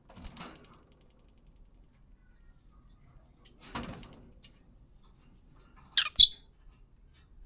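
Pet parrots moving about as they eat apple: a short rustle a little past halfway, then two sharp, loud, high sounds about a quarter-second apart near the end.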